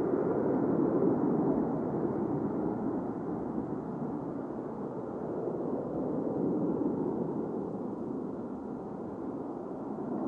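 Distant jet noise from an Airbus A320-232's IAE V2500 turbofans as the airliner departs, a dull rumble that swells about a second in, eases, and builds again near the end.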